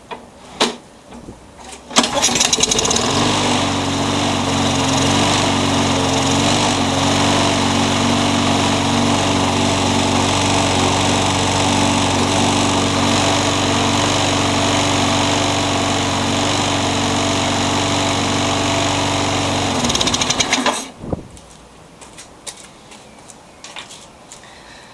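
A Toro walk-behind lawnmower's single-cylinder engine is started on a retry and catches about two seconds in. It runs steadily for about eighteen seconds, then cuts off suddenly. The engine has a slightly bent crankshaft that makes it vibrate.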